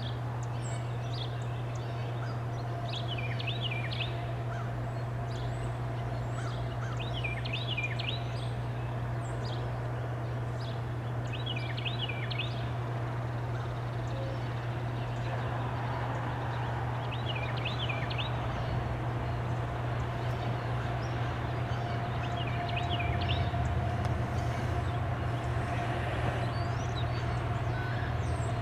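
A bird calling a short phrase of quick chirps, repeated every three to four seconds, over a steady low hum that grows slightly louder near the end.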